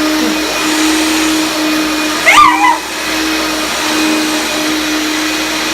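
1975 Hoover Dial-a-Matic upright vacuum cleaner running with a steady motor hum, a motor the owner calls dry and thinks needs lubrication. Over two seconds in, a short, loud, high cry rises and falls briefly.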